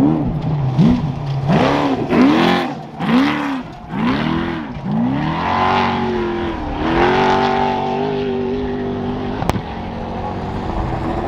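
Trophy truck engine at race speed, its revs rising and falling about once a second in quick repeated surges, then held steady at high revs for the second half. A sharp click near the end.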